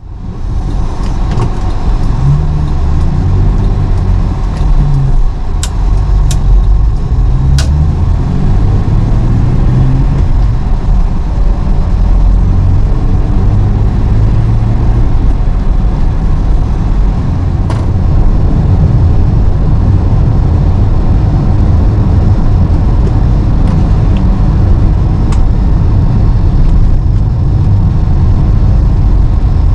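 Nissan Skyline C110 'Kenmeri' on the move: steady engine and road noise, heaviest in the low end, with a few faint clicks.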